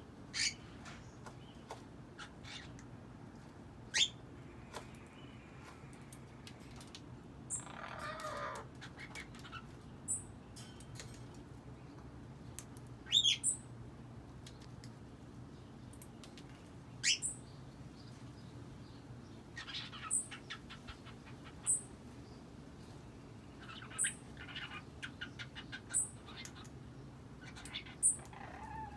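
Cockatiel vocalising: short, high chirps every couple of seconds, a garbled warbling passage about eight seconds in, and quick runs of short notes later on, the sounds of a young cockatiel starting to try to talk.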